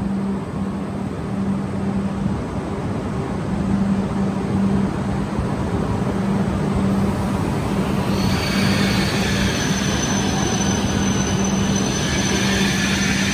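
Coupled E5- and E6-series Shinkansen train at the platform, its equipment giving a steady low hum. About eight seconds in the sound grows fuller and louder with a high whine as the train moves off.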